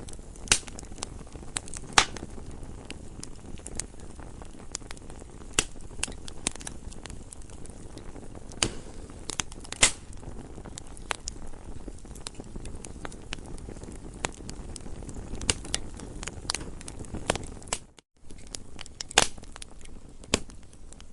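Campfire crackling: irregular sharp pops and snaps, some much louder than others, over a steady low rumble of the burning fire. The sound cuts out for an instant about three-quarters of the way through.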